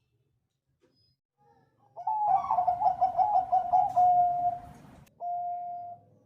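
Zebra dove (Bangkok perkutut) singing: after a short silence, a quick rolling string of coos that ends in a drawn-out note, then one more short steady coo near the end.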